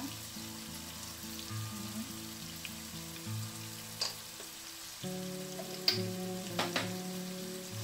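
Ground pork sizzling as it fries in a pan, with a few sharp clicks in the second half.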